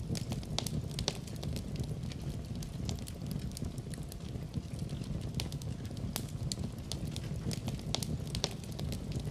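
Fireplace fire crackling: frequent, irregular sharp pops and snaps over a steady low rumble of burning.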